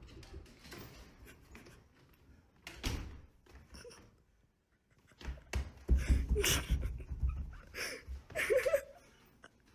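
A run of knocks and thuds, one about three seconds in and a louder cluster from about five to nine seconds in, with a brief pitched squeak near the end.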